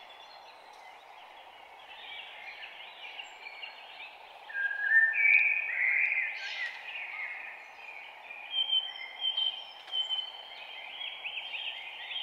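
Birds chirping and calling over a steady background hiss, the calls faint at first and louder from about four and a half seconds in, with a run of short sharp calls later on.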